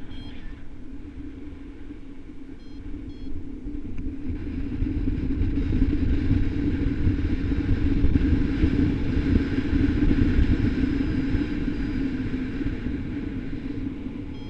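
Wind rushing and buffeting over the microphone of a paraglider in flight, a deep rumble that swells to its loudest midway and then eases. Two or three short high variometer beeps sound about three seconds in.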